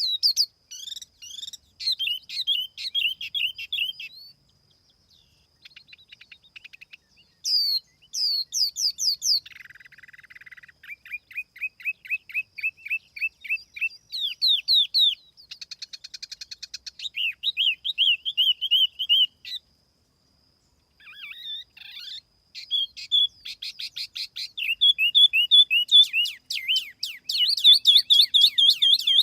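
Tiểu mi songbird singing in fast series of high chirps and trilled phrases, broken by two brief pauses. This is a clean lure recording of the bird's song.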